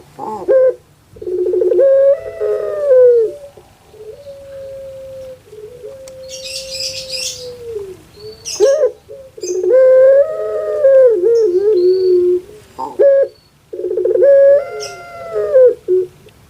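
Puter pelung dove (Streptopelia risoria) cooing in several long, drawn-out phrases, some wavering and breaking in pitch, one held on a steady note for a few seconds, with short calls in between. A brief hiss sounds about six seconds in.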